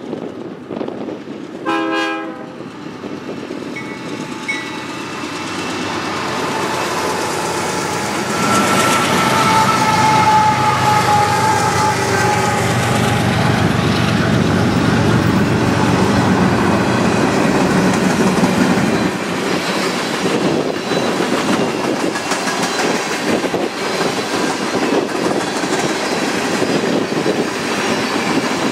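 Diesel freight train passing close by: a short horn toot about two seconds in, then a long multi-note air horn chord that drops slightly in pitch as the locomotives go by. After the horn stops, the train keeps rumbling past with a steady run of wheel clicks over the rail joints.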